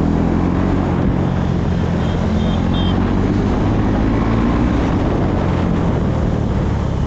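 On-board sound of a KTM Duke 390's single-cylinder engine running under way, its pitch climbing over the first few seconds as the bike accelerates, over a steady rush of wind and road noise. Three short high beeps sound about two to three seconds in.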